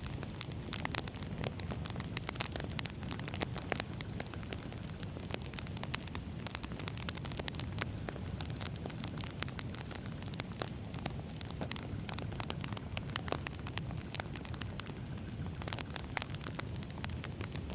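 Wood fire burning with a steady low rumble and frequent irregular crackles and pops of the burning logs.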